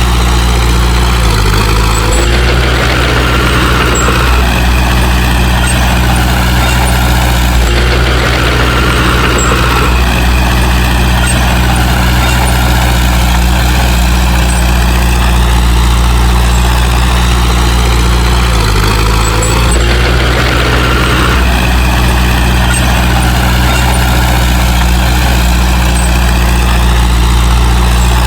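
Heavy diesel engine of earthmoving machinery running steadily and loudly, its note shifting a few times as the load changes.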